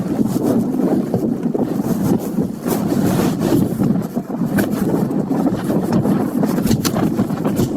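Wind buffeting the microphone: a loud, unbroken, rough low rumble with a few sharp crackles.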